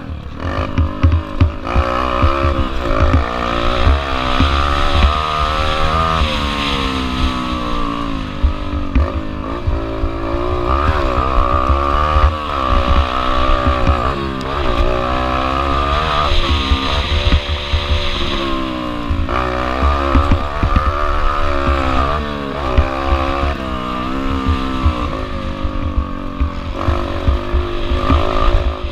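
Small four-stroke single-cylinder dirt bike engine, a Yamaha TT-R125L, ridden hard: the revs climb and drop again and again throughout.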